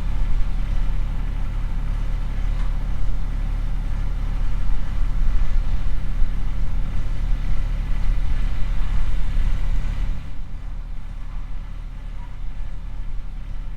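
A vehicle engine running steadily with a low rumble, which drops quieter about ten seconds in.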